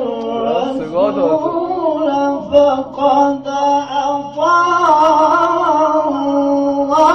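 Quran recitation in tajweed style, in maqam Sikah: a single voice holds long, ornamented melismatic notes with a wavering vibrato, with short breaks between phrases. It climbs to a higher sustained note about four and a half seconds in.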